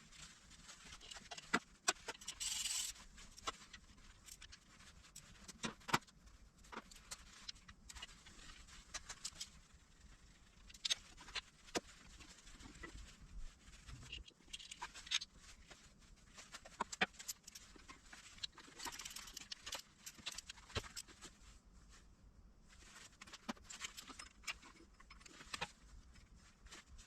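Hand tools and engine parts being handled during engine teardown: irregular metallic clicks and knocks, with a few short rasping bursts.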